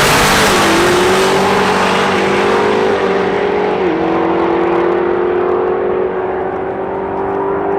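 Drag-racing car accelerating hard down the strip, its engine note climbing through each gear and dropping sharply at the upshifts. The sound fades in the treble as the car pulls away.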